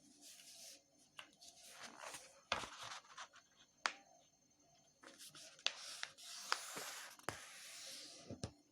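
A sheet of paper being folded: faint rustling in several stretches, with a handful of short, crisp clicks as the crease is pressed.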